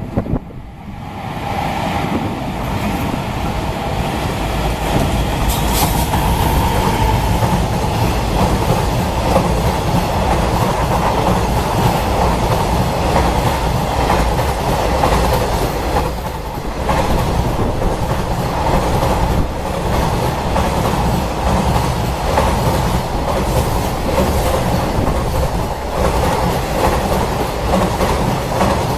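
Freight train hauled by an EF200 electric locomotive and made up of Koki container wagons, passing at speed. Steel wheels rumble and clatter on the rails; the sound rises within the first second or two and stays loud and steady.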